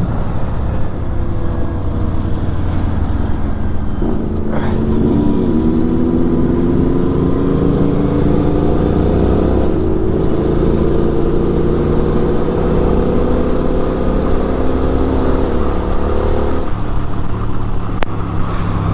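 Kawasaki Z900 inline-four with an SC Project exhaust, running under way with heavy wind rumble on the microphone. From about four seconds in its pitch climbs slowly and steadily for some twelve seconds as the bike pulls, then falls away near the end.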